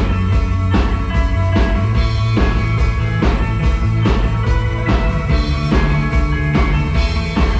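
Live rock band playing an instrumental passage, with no singing: a steady drum beat about once every 0.8 seconds under sustained guitar chords and a heavy bass line.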